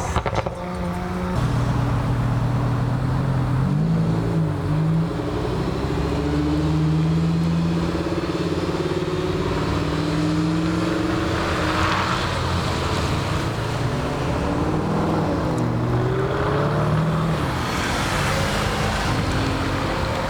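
Car engines running, their pitch stepping and gliding up and down as they rev, with louder rushes of noise about twelve seconds in and again near the end.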